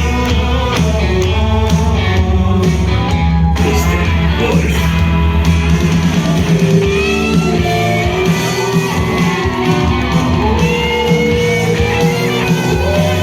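Rock song with guitars and bass and a voice singing over them.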